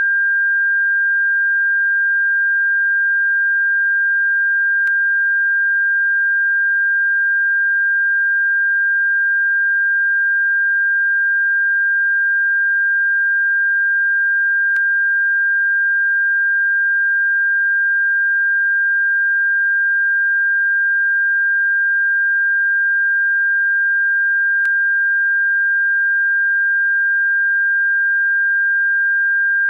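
Steady pure sine tone at about 1.5 kHz, held at one pitch and level, made as a bird-repellent frequency. Faint clicks break in about every ten seconds.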